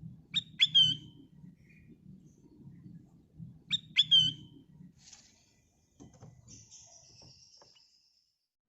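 Kutilang emas bulbul calling: two loud bursts of sharp, quick chirps about three seconds apart, over a low rumble. Fainter scratchy twittering and a few clicks follow.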